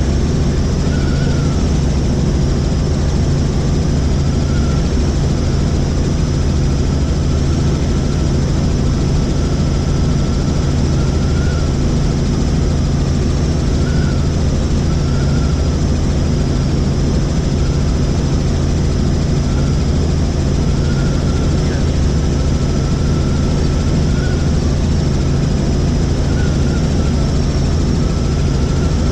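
Helicopter in flight: a steady, loud drone of engine and rotor with a faint wavering whine above it.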